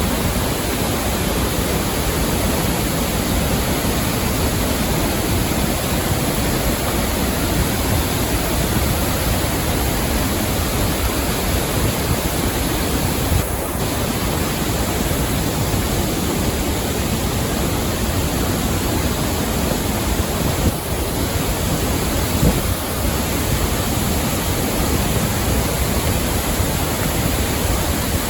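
Rain-swollen waterfall in flood, its water rushing in a steady, loud, unbroken roar.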